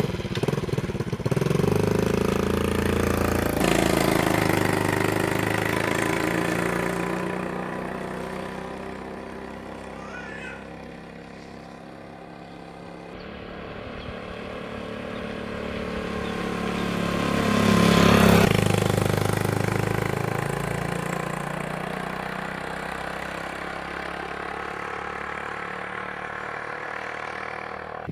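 Small engine running, starting abruptly, easing off towards the middle and growing loudest about two-thirds of the way through before settling to a steadier level.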